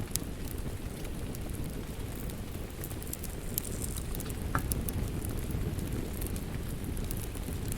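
Wood fire crackling, with scattered sharp pops over a steady low rumble of flames; one slightly louder pop about four and a half seconds in.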